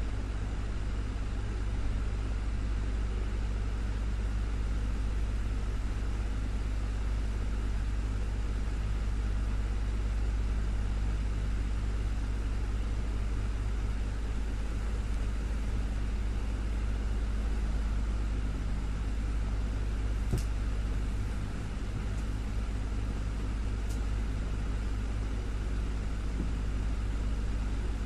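Desktop electric fan running steadily, a constant low motor hum under an even airy whoosh of the blades. Two faint ticks come about 20 and 24 seconds in.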